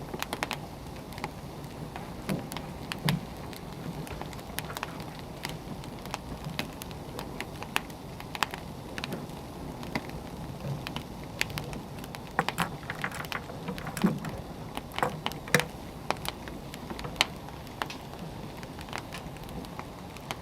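Wood fire crackling: a steady low hiss of burning logs with irregular sharp pops and snaps, a cluster of them in the second half.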